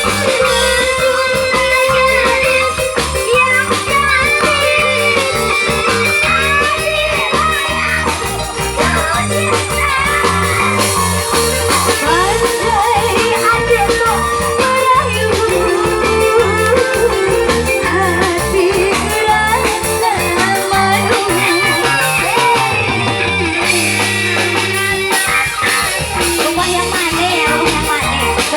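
Loud band music with guitar over a steady drum beat, a bending melody line running above it.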